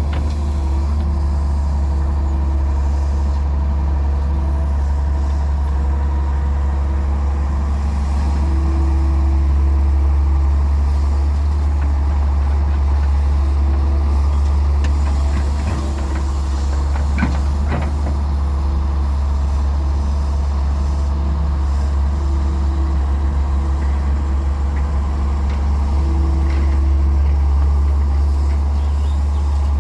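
Diesel engine of a Daewoo Solar 170W-3 excavator working, a steady deep drone with a higher tone that comes and goes. A brief clatter of knocks about seventeen seconds in.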